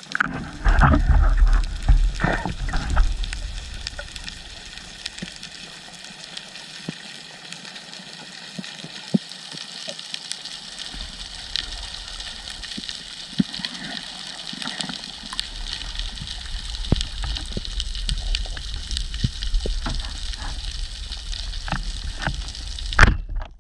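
Underwater ambience: a steady crackle of fine clicks, typical of snapping shrimp on a reef, with heavier rushing water noise in the first few seconds. There is a short loud noise near the end.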